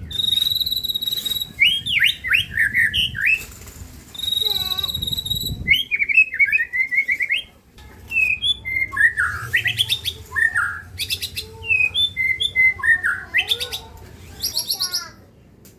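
A songbird singing a varied, rapid song of chirps, trills and slurred notes, with long steady high whistles near the start and again around four seconds in.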